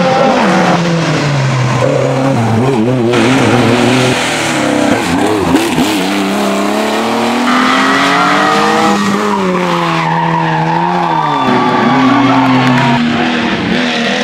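Historic rally car engines at full throttle, their pitch climbing through the gears and dropping on lift-off, with tyre noise. The sound jumps abruptly from one car to another several times.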